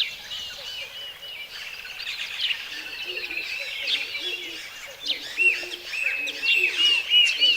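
A chorus of many birds chirping and calling together in a dense run of short, arching whistled notes. From about three seconds in, a lower short note repeats underneath roughly once or twice a second.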